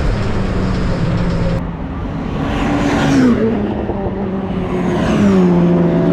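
Ford Focus ST race car's engine running, its pitch dropping twice as the car slows.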